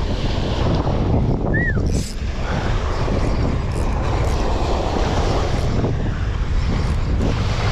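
Steady wind buffeting the microphone over a low engine drone, as of a fishing boat under way. There is a short high chirp, rising then falling, about a second and a half in.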